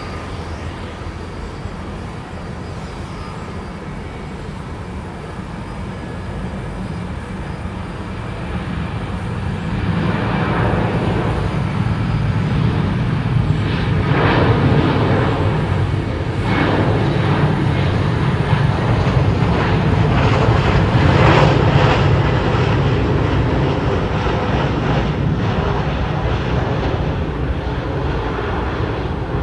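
Jet airliner engines passing by: a steady rumble that swells about a third of the way in, stays loud through the middle and eases off near the end.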